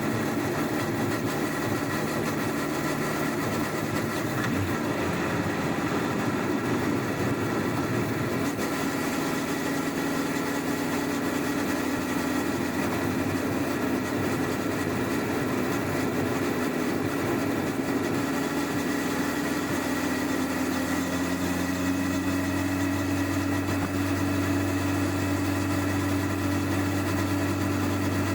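Stock 1999 Honda CBR1100XX Blackbird's inline-four engine running at low, fairly steady revs on its standard exhaust, heard from under the rear seat. The tone shifts slightly about eight seconds in and holds steady over the last third.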